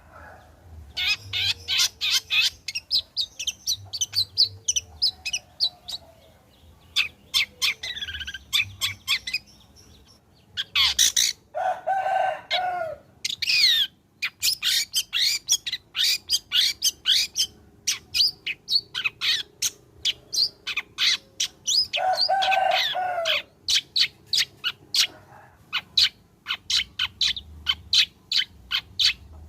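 Long-tailed shrike (cendet) singing: fast runs of short chirps and clicky notes, broken twice by a longer, harsh, lower call.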